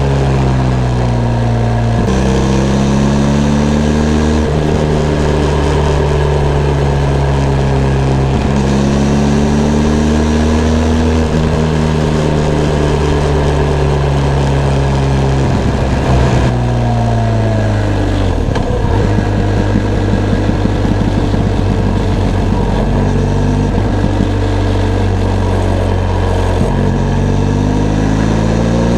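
Benelli TRK 502 X parallel-twin engine on a ride, pulling up through the gears with pitch drops at each shift. About halfway through it rolls off and the revs fall, with a run of rapid crackles. Near the end it revs up again.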